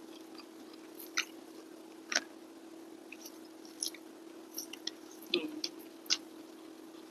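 Close-up mouth sounds of a person chewing rice and fish: short wet smacks and clicks about once a second, over a faint steady hum.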